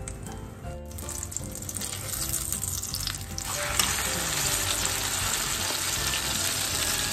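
Eggplant omelette (tortang talong) sizzling and crackling as it fries in hot oil in a frying pan, on its second side after being turned. The sizzle grows much louder about three and a half seconds in.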